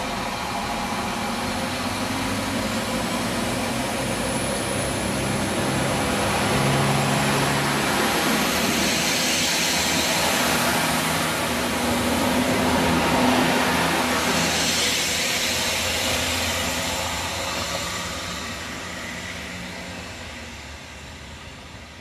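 Sprinter diesel multiple unit (Siemens Desiro) pulling out of the station. Its engines and wheels run close past with a steady hiss and low drone, loudest midway, then fade over the last few seconds as the train draws away.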